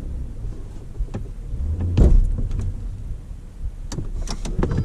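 A motor vehicle's engine running low and steady, with a loud knock about two seconds in and a few sharp clicks near the end.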